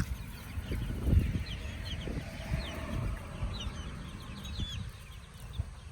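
A brood of month-old chicks peeping: many short, high chirps scattered throughout, over a low rumble.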